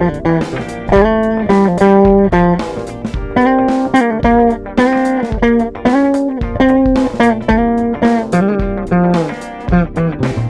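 Bacchus Limited Edition 60's BJB-AGED jazz bass played clean, straight into an audio interface with no EQ or compression. It plays a line of single plucked notes, each attack clearly struck, mostly in a higher register, dropping back to lower notes near the end.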